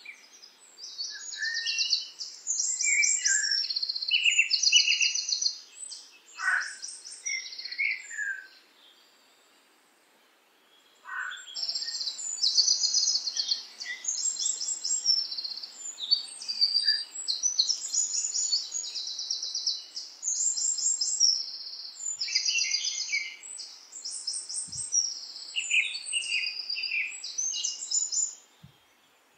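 Birdsong: rapid, high trills and chirps in quick succession, in two long bouts with a pause of a few seconds about a third of the way in.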